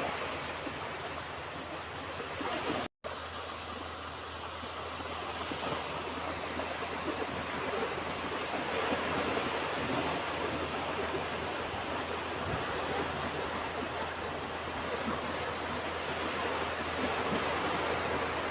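Ocean surf washing steadily onto a beach, rising in a slow swell over several seconds. The sound cuts out for an instant about three seconds in.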